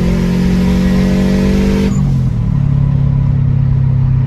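Turbocharged EJ257 flat-four in a Subaru Forester pulling hard under boost, with the loud rasp of its 44 mm external wastegate venting. About two seconds in, the revs drop suddenly and the hiss falls away, leaving a lower, steady engine drone.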